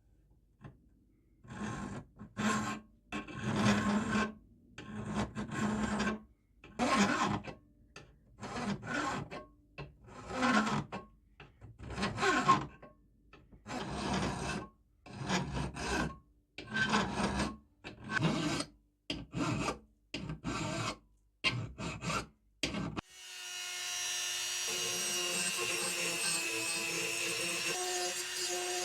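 Hand filing on the steel of old scissors: about twenty rasping back-and-forth strokes, roughly one a second, some in quick pairs. About six seconds before the end they give way to a steady, continuous sound with held tones.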